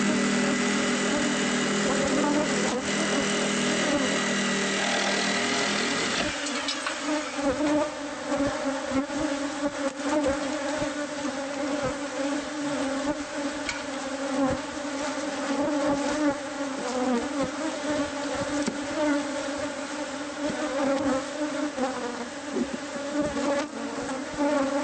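A mass of honeybees buzzing loudly around an opened hive, a dense droning hum with scattered small ticks. For the first six seconds a steady machine hum sits over it, then cuts off abruptly.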